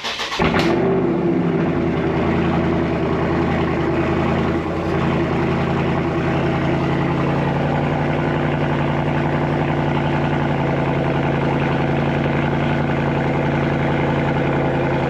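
Dodge Scat Pack's 392 HEMI V8 cold-starting after sitting three weeks: a brief crank, it catches with a loud flare under a second in, then settles into a steady, loud idle.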